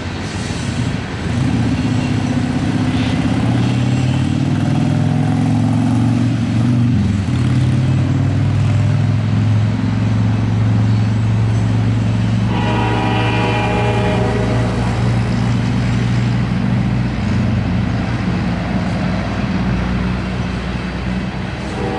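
Diesel locomotives hauling a loaded coal train, their engines giving a loud steady drone as they pass. The locomotive horn sounds once for about two seconds midway, and starts again right at the end.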